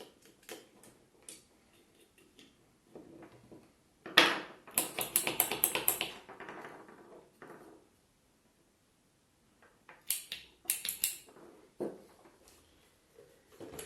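Small parts of a double-pole main switch clicking and rattling as it is handled, with a dense run of clicks about four seconds in and another short cluster around ten seconds.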